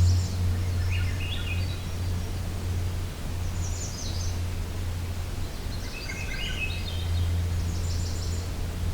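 Songbirds singing softly: short high phrases, some stepping down in pitch, repeat every couple of seconds over a steady low hum.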